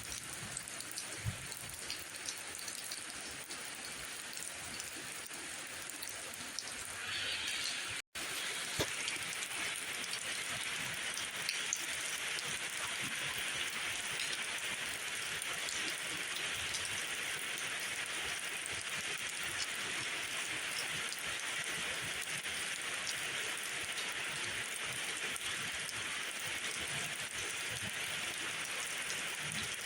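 Steady rainfall with scattered small drop ticks. The sound cuts out for an instant about 8 seconds in, then the rain goes on a little louder and brighter.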